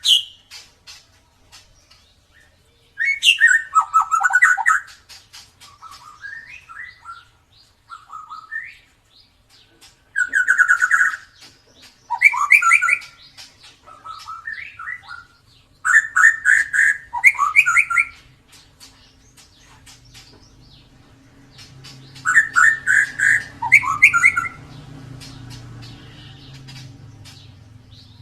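White-rumped shama (murai batu) singing: loud phrases of rapid, sweeping whistled notes come a few seconds apart, with softer notes in between. A low steady hum joins in the second half.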